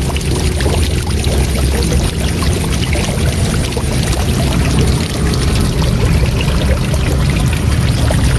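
Waterfall rushing steadily, with a deep rumble underneath.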